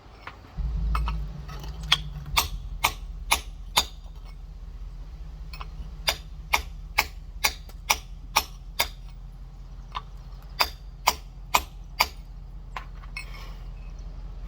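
Rock hammer tapping a large geode to crack it open along a split: sharp taps in three runs of about two a second, over a steady low rumble.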